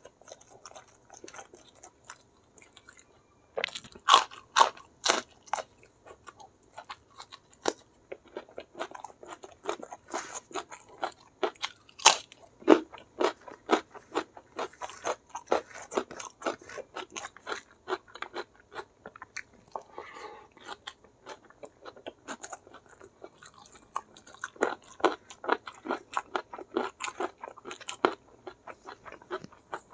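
Close-miked chewing of crispy fried chicken and rice, full of sharp crunches and wet mouth clicks, loudest around four to five seconds in and again about twelve seconds in.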